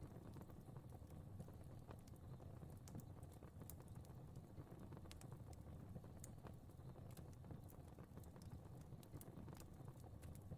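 Fire crackling faintly: irregular sharp pops and snaps over a soft, steady low rumble of flames.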